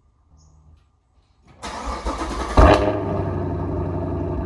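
Chevrolet Camaro SS's 6.2-litre LT1 V8 cold-starting about a second and a half in: the starter cranks, the engine catches with a loud rev flare about a second later, then settles into a steady idle.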